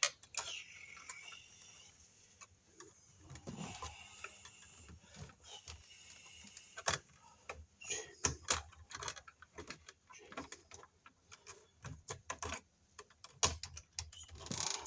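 Bare copper ground wires being gathered and handled for splicing, making irregular light clicks, taps and scrapes of metal.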